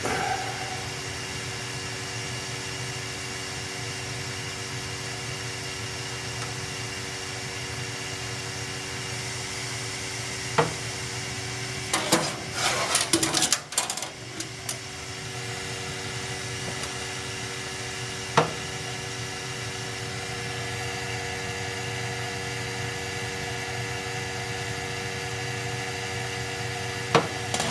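Steady mechanical hum of a running gas-fired boiler, with a few fixed tones over a low drone. A handful of sharp single clicks and, about halfway through, a couple of seconds of clattering handling noise.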